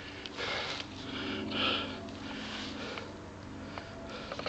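Breaths close to the microphone, two louder puffs early on, over a low steady rolling noise from the bike ride.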